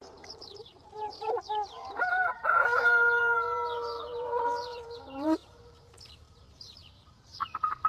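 Cartoon chicken sound effect: a few short squawks, then one long drawn-out crowing call held on a steady pitch for about three seconds that drops sharply as it ends. Near the end comes a quick run of clucks.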